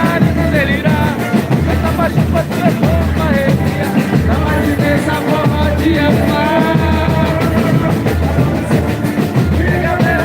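Live boi-bumbá toada: a singer's voice over a band with a heavy, steady drum beat.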